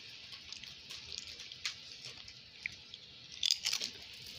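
Someone chewing and crunching cheddar potato chips, with a quick run of sharper crunches about three and a half seconds in.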